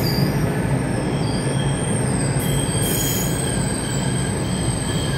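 Two trains in an underground station: an EMU3000 electric multiple unit pulling in to the platform beside a moving push-pull Tze-Chiang train. There is a steady, loud rumble of wheels and running gear, with thin, high squeals held over it.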